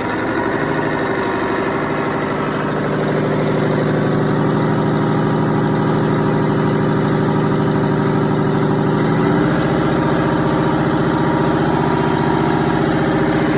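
Detroit Diesel 8V92TA, a two-stroke turbocharged V8 diesel, running steadily near idle, its speed stepping up slightly in the first seconds and again about nine seconds in.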